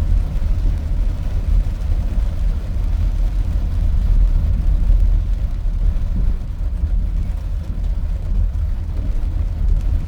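Car driving, heard from inside the cabin as a steady low rumble of engine and road.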